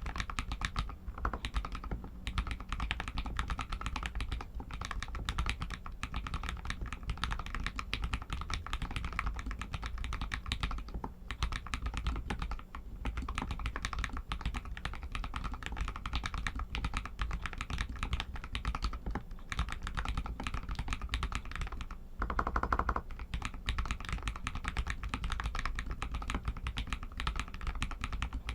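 Continuous fast typing on a Royal Kludge RK61 mechanical keyboard with Outemu Red linear switches: a dense, steady stream of key clacks. A brief, louder cluster of keystrokes comes about three-quarters of the way through.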